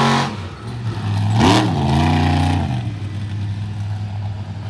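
Monster truck engine revving: a rev dies away at the start, then a sharp blip of the throttle about a second and a half in is held for about a second before dropping back to a low, rumbling idle.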